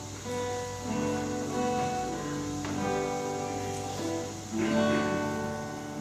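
Acoustic guitar playing slow chords, a new chord struck about every two seconds and left to ring.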